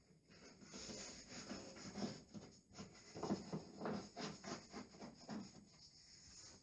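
Lining paper rustling and rubbing as it is handled and smoothed onto the wall, in a run of short, uneven strokes.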